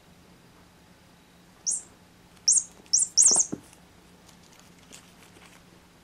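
Cat toy bird chirping in short high-pitched bursts, about four in quick succession a couple of seconds in, set off as a cat bites and shakes it. A soft knock comes with the last chirps.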